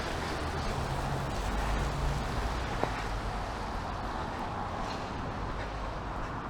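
Steady city-street noise: a motor vehicle running past over a constant rush of wind and rain, with a faint engine hum about a second in.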